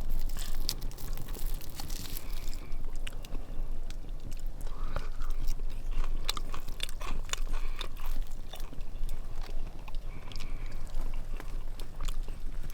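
Close-up eating sounds: a person biting into and chewing campfire-roasted chicken, with irregular crunching clicks throughout.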